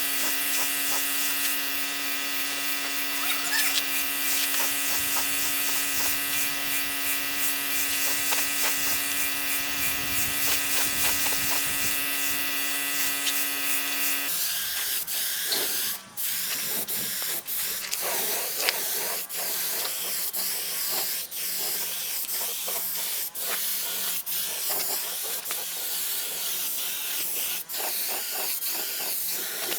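A motor running steadily with an even hum for about the first half. It then gives way abruptly to a steady hiss broken by regular sharp clicks.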